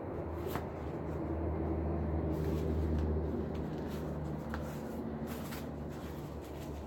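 Paper packing rustling and light knocks as items are handled and unwrapped in a cardboard box, over a steady low hum.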